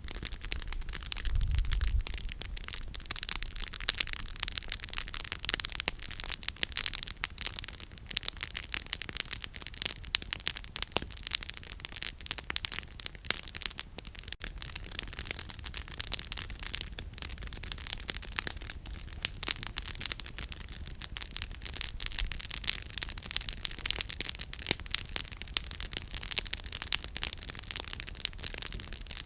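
Wood campfire crackling, with frequent sharp pops and snaps of burning firewood over a steady hiss. There is a brief low thump about a second and a half in.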